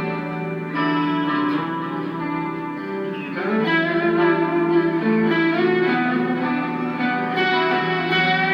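Electric guitar played through a Boss ME-25 multi-effects unit on a crunch (lightly overdriven) patch, playing a melodic line of sustained, changing notes over a steady low note.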